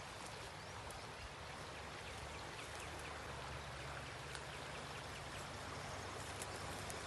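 A swollen river's water rushing steadily.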